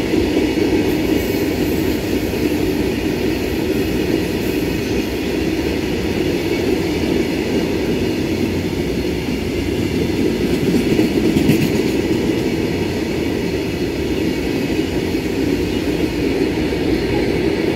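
Open-top freight wagons of a goods train rolling past close by: a steady rumble and rattle of steel wheels on the rails.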